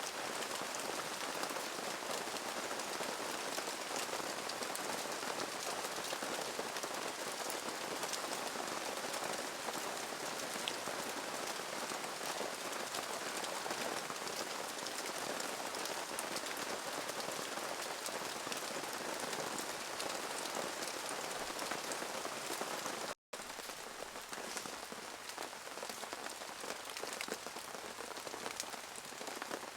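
Steady rain falling, a dense even hiss with many small drop ticks. It cuts out for an instant about 23 seconds in and resumes a little quieter.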